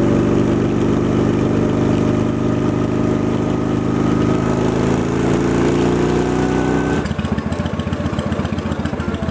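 Honda Shadow Spirit 750 V-twin with Cobra aftermarket exhaust, running steadily at raised revs; about seven seconds in it drops to idle with an even pulsing beat.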